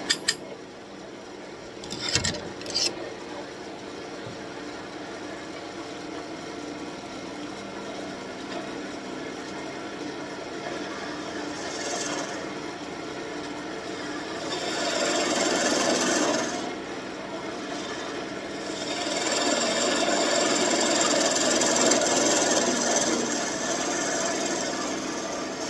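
Wood lathe running with a steady hum while a hand tool scrapes against the spinning birch wand blank, with a few sharp clicks in the first seconds. The scraping grows louder twice, in the middle and over much of the second half.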